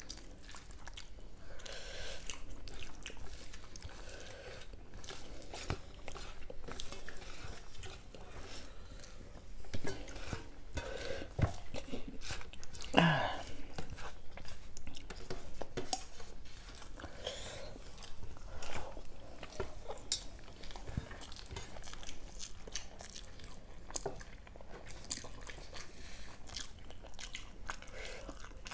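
A person chewing and crunching food close to the microphone, with many small clicks and mouth smacks of eating.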